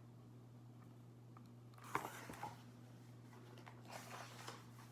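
Soft paper rustling and a light click about two seconds in, with a fainter rustle near the end, as a book page is turned, over a low steady hum.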